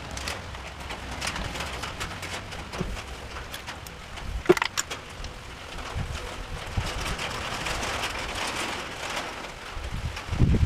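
Rain falling steadily, with scattered small clicks and one sharper clink about halfway through.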